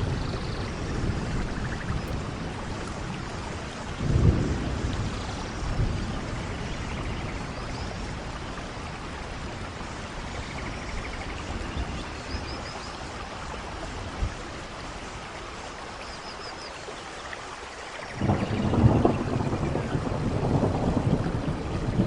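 Steady rainfall with rumbles of thunder: short rolls about four and six seconds in, and a louder, longer roll starting near the end.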